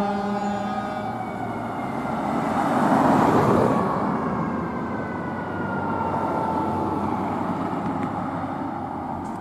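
Fire engine passing on a response, its engine and road noise swelling to a loud rush about three seconds in, then its siren wailing with slowly falling pitch as it pulls away and gradually fades.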